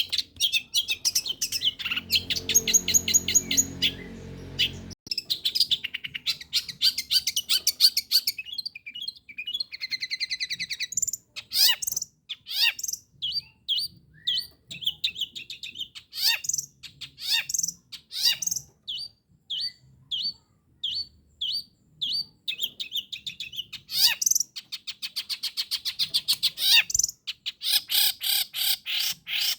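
Long-tailed shrike singing a long, varied run of rapid chirps, trills and repeated short high notes. A low rumbling noise runs under it for a few seconds near the start.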